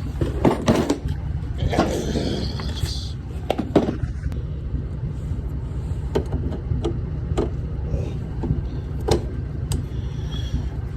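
Scattered knocks, clicks and a short scrape of hands and tools working on a lawn mower wheel, over a steady low rumble.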